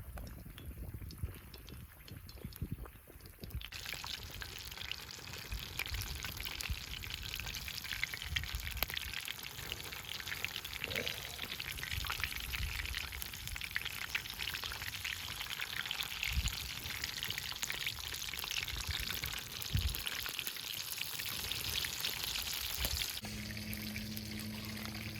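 Fried chicken deep-frying in a pot of hot oil, a dense, steady sizzle and crackle that sets in abruptly about four seconds in. Near the end the sizzle drops away and a steady low hum takes over.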